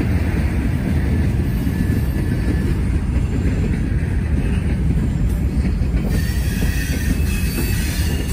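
Norfolk Southern train rolling past with a steady rumble of wheels on rail, and a faint high wheel squeal coming in about six seconds in.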